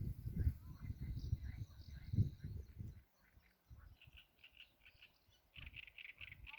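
Small birds chirping in short repeated notes, most busily in the second half. A low rumble runs under the first three seconds, then stops.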